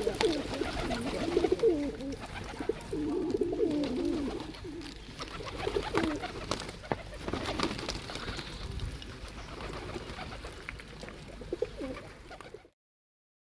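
Pigeons cooing, several overlapping low coos that rise and fall, thickest in the first few seconds and recurring later, with scattered sharp taps throughout. The sound cuts off suddenly near the end.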